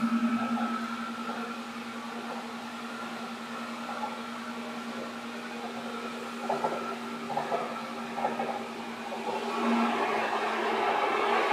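Seibu 2000 series electric train running, heard from inside the car: a steady hum with a pulsing tone that drops in level about a second in, a few brief knocks in the middle, and the running noise swelling up again near the end.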